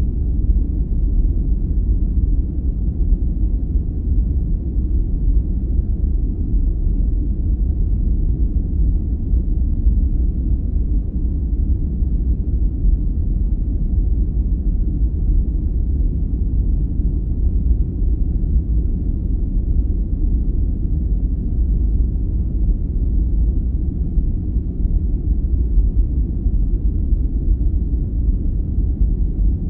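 Steady, deep rumbling noise from a sleep-aid noise track, even throughout, with its weight in the bass and no high hiss.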